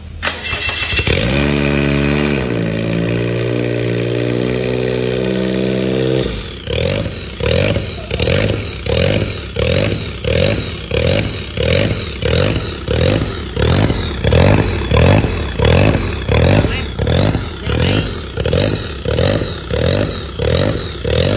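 Turbocharged 660 cc three-cylinder Perodua engine with a high-lift cam, running at a steady speed for about six seconds, then revving up and dropping back over and over, about one to two surges a second.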